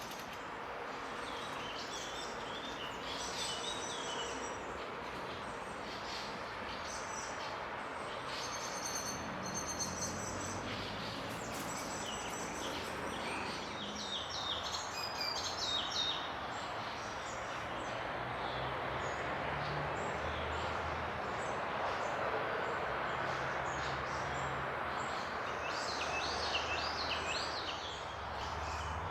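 Small birds chirping and singing in short phrases, a few seconds apart, over a steady background hiss of distant noise.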